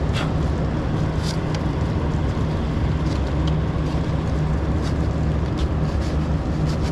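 Diesel engine of a semi truck idling steadily, with a few sharp clicks of handling over it.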